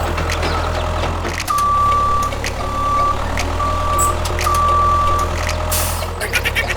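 Electronic beeper sounding four times on one high steady tone, the first and last beeps longer than the middle two, over the steady hum of a small motor, with scattered light clicks and knocks.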